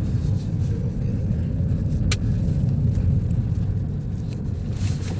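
Steady low road and engine rumble of a car driving, heard from inside the cabin, with a brief high squeak about two seconds in.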